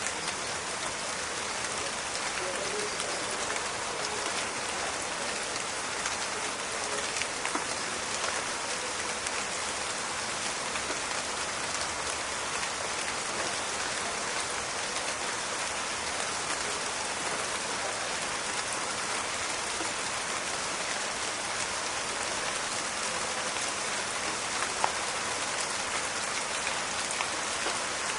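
Steady rain falling in a forest, a dense even hiss of drops with scattered small crackling drop hits and one sharper drop tick near the end.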